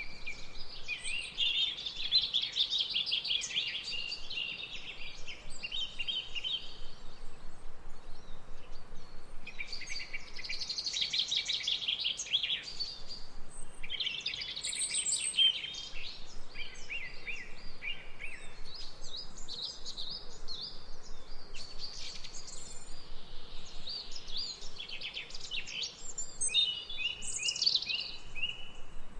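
Birds chirping and twittering in quick trills, one burst after another, over a faint steady background hiss.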